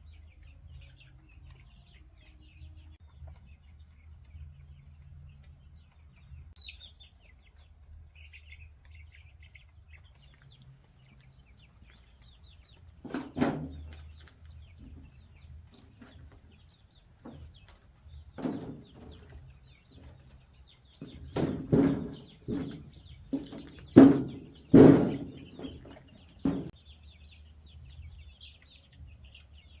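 Scattered knocks and clunks, a few around halfway and a denser, louder run in the last third, over a steady chirping of insects.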